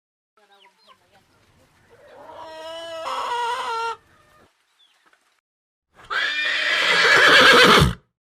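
Two farm-animal calls, each about two seconds long; the second is louder and harsher and drops in pitch at its end.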